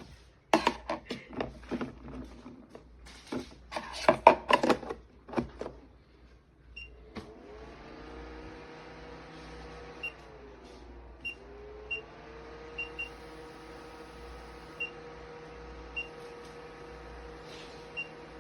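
A run of loud clicks and knocks from the unit being handled, then the VEEMI portable evaporative air cooler's fan motor starts about seven seconds in and runs with a steady hum, its pitch dipping briefly and recovering around ten to eleven seconds in. Short high beeps sound every second or two over the hum, like the cooler's control panel answering button presses.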